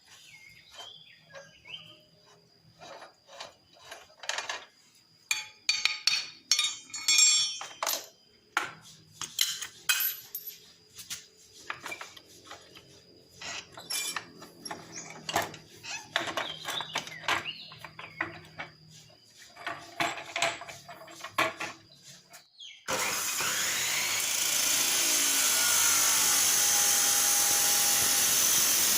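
Hand tools and loose metal exhaust parts clinking and knocking at irregular intervals while a Honda Supra X exhaust is being unbolted. Near the end a loud, steady hissing noise starts suddenly and keeps going.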